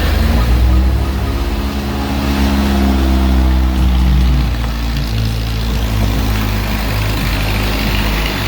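Ford 1,600 cc engine in a dune buggy running just after a fresh start on new plugs, cap and rotor, held at raised revs for the first four seconds or so, then dropping back to a steadier idle. The carburettor air screws are still out of adjustment.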